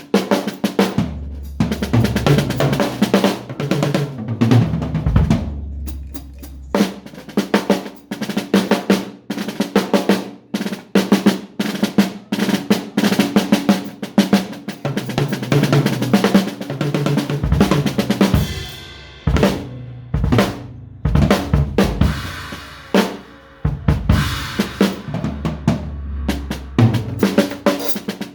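Drum kit played freely, with busy snare and bass-drum strikes, rolls, rimshots and cymbal hits in an irregular, improvised stream broken by brief pauses.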